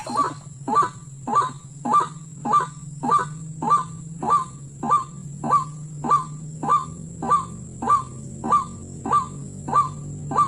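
White-breasted waterhen (ruak-ruak) call, a short honking note repeated at a very even pace of nearly two a second.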